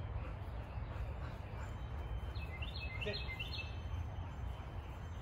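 A bird sings a short phrase of quick, high chirps, stepping down in pitch, a little past the middle, over a steady low outdoor background rumble.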